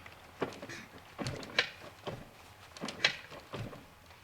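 Clanking from inside a Yamaha YZ465 two-stroke engine as the bike is rocked back and forth in gear with the engine off: about six clunks at uneven spacing. The owner takes it for an internal engine fault bad enough that it could come apart, and wants to tear the engine down before riding.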